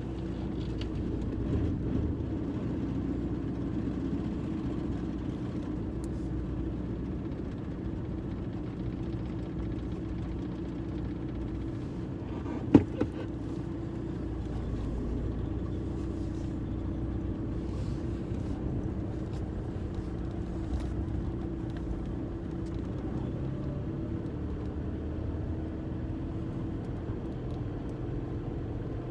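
Volkswagen car driving, with a steady engine and road hum. A single sharp knock comes about halfway through.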